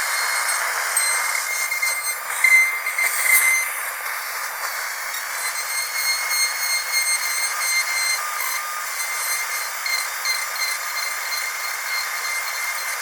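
High-speed dental drill whining steadily at a high pitch over a hiss, with a louder, uneven stretch about two to three and a half seconds in.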